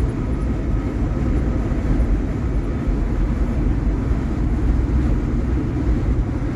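Steady engine and road noise inside the cab of a Kenworth T680 semi truck as it drives along, a continuous low rumble.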